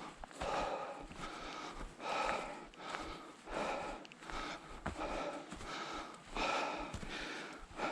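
A hiker breathing hard on a mountain trail, a heavy breath about every second and a half, with light footsteps between the breaths.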